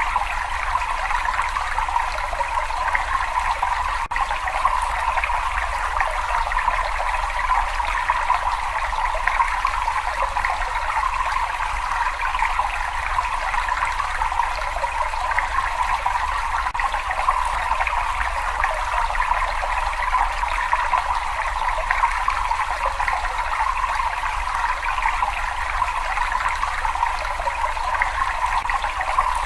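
Water trickling and splashing steadily and unbroken, with a faint low rumble underneath.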